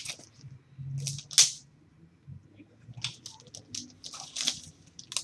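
Packaging being handled and rustled, in irregular short crinkles, the loudest about one and a half seconds in, and a busier run of them from about three seconds in.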